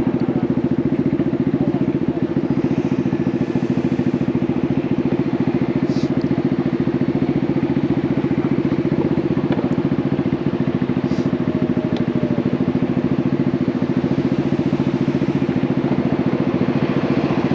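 Honda Navi's small single-cylinder four-stroke engine running steadily at an even pitch through an aftermarket Vance & Hines exhaust, with a few faint ticks.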